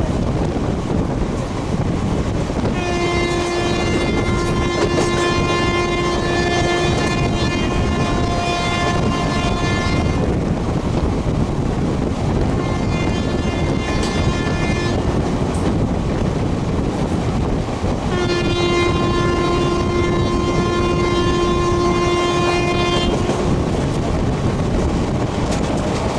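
A train running at speed with a steady rush of wheel and wind noise, while a locomotive horn sounds three times: a long blast, a shorter, fainter one, then another long blast, each held at a steady pitch.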